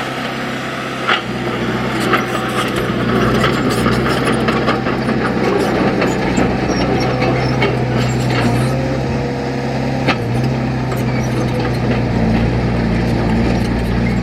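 Heavy diesel earthmoving machine engine running steadily, its pitch shifting slightly a few times, with scattered metallic clanks and knocks.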